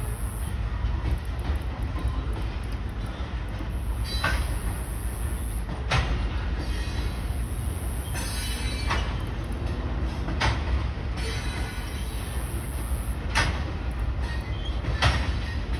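Freight train of covered hopper cars rolling past: a steady low rumble of the cars, with sharp clacks of wheels over rail joints every one to three seconds.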